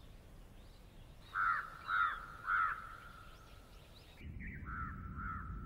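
A bird calling three times, about half a second apart, then a few fainter calls near the end over a low, steady rumble that starts about four seconds in.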